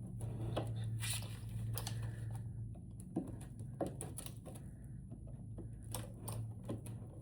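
Scattered light clicks and knocks of hands working at a lithium trolling-motor battery's case to get the top off, over a steady low hum.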